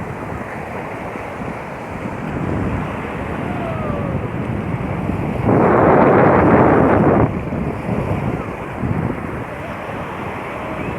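Sea waves washing onto a beach, with wind buffeting the microphone; a louder rush of noise lasting under two seconds comes about halfway through.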